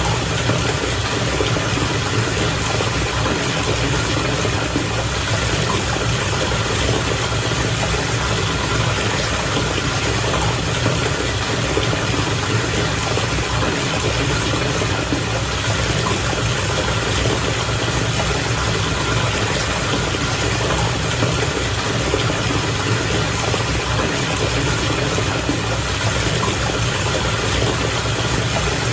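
Bath water bubbling steadily over a constant low machine hum, like a whirlpool tub's air blower or jet pump running.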